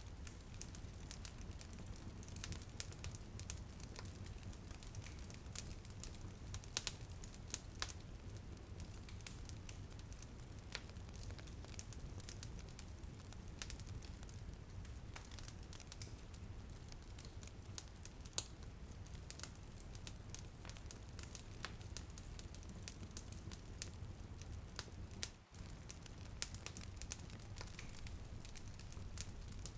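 Wood fire crackling in a fireplace: irregular sharp pops and snaps over a steady low rumble and hiss. The sound briefly drops out about three-quarters of the way through.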